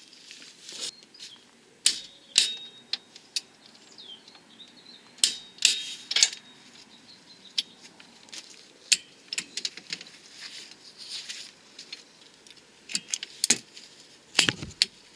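Metal hand tools clinking and clicking against car parts: irregular sharp clicks and knocks, some with a brief metallic ring, as parts are refitted by hand.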